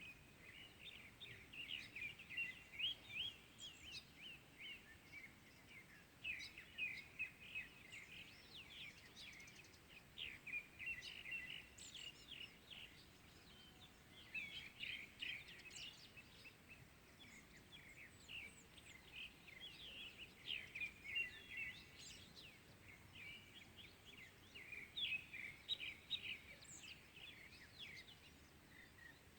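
Small birds chirping and twittering faintly, in clusters of rapid short calls every few seconds over a faint steady background hiss.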